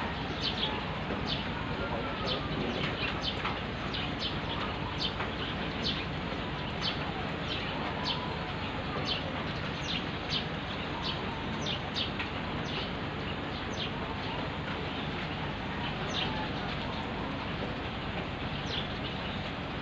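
Steady rain falling, with small birds chirping repeatedly over it in short high calls.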